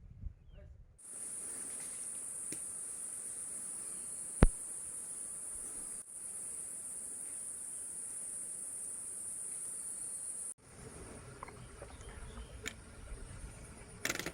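Insects chirring in a steady high-pitched drone, with one sharp click about four seconds in. The drone stops abruptly about ten seconds in, leaving a lower, uneven rustling noise.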